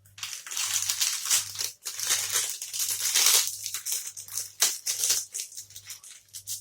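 Plastic wrappers being crinkled and crushed in the hands, in a dense, irregular rustle. Underneath, a low beat of music pulses about twice a second.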